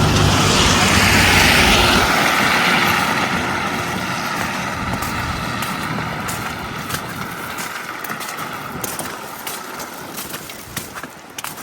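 A motor vehicle passes close by with its engine running, then fades away over the following seconds. A few sharp clicks come near the end.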